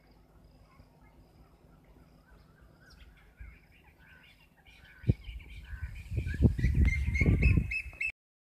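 Birds chirping again and again over a quiet rural background. From about five seconds in, loud low rumbling and thumps hit the microphone, and all sound cuts off abruptly just before the end.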